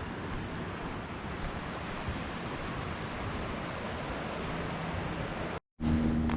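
Steady rushing roar of a creek waterfall. Near the end it cuts off abruptly and a steady low hum follows.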